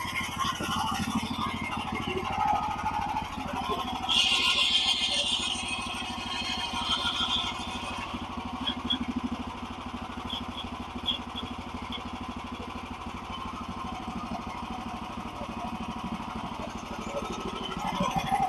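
Portable band sawmill's gas engine running steadily at idle, with a brief louder noise about four seconds in.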